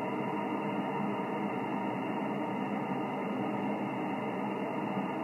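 Steady hiss of a Yaesu FT-1000MP HF receiver tuned to the 20-metre band with no station transmitting: band noise heard through the narrow single-sideband audio passband, with a few faint steady tones in it.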